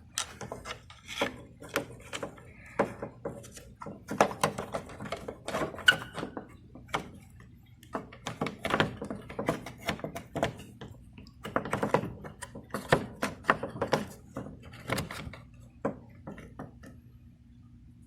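Irregular clicks, taps and knocks of hard parts and hand tools being worked in a car door during a door-lock actuator replacement, coming in quick clusters with short pauses between.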